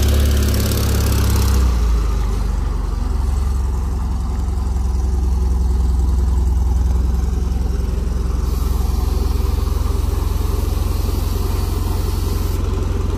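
Air-cooled flat-four engine of an old VW Beetle running with a steady low rumble, a little louder for the first couple of seconds as the car is moved, then settling to a steady idle.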